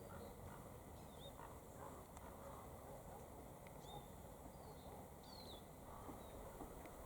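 Faint outdoor background with a steady low hiss, broken by a few short, high, falling chirps from small birds somewhere off.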